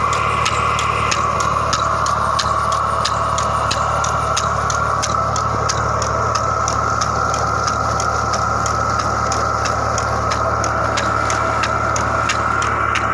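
Tractor engine running steadily while driving a pump that draws water from a deep well, with a steady high whine and a regular ticking about four to five times a second.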